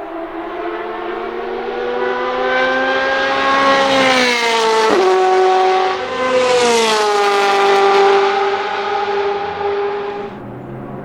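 Ferrari 458 GT2 race car's naturally aspirated 4.5-litre V8 at high revs on track, pitch climbing as it approaches, then dropping sharply as it passes about five seconds in. It climbs again and holds a high note before fading abruptly shortly before the end.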